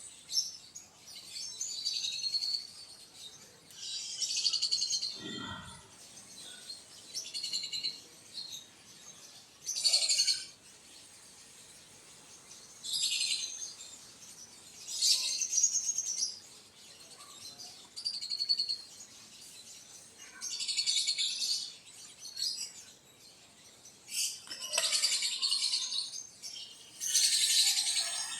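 Small birds chirping in short high bursts, one flurry every two to three seconds.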